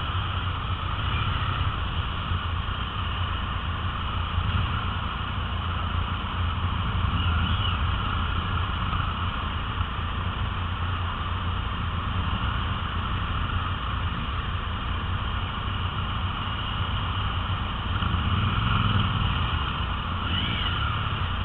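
Triumph Bonneville T100's parallel-twin engine running at low speed, a steady low hum, amid a group of other motorcycles.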